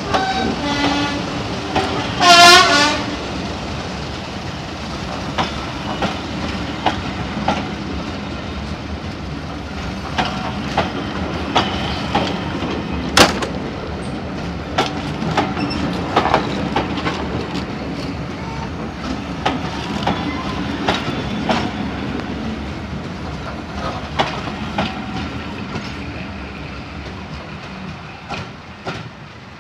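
Passenger coaches rolling past at low speed, their wheels clicking over rail joints in pairs as each bogie crosses, fading as the train draws away. About two seconds in there is a brief, loud wavering tone.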